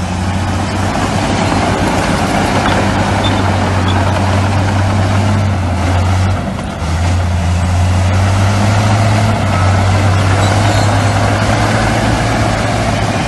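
Heavy diesel earthmoving machinery running with a steady, deep engine drone that dips briefly about six seconds in.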